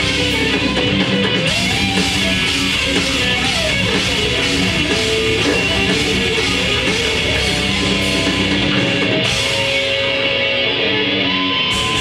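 A grindcore band playing live: heavily distorted electric guitar over bass and drums. About nine seconds in, the cymbals drop out and a single sustained guitar note rings on until near the end.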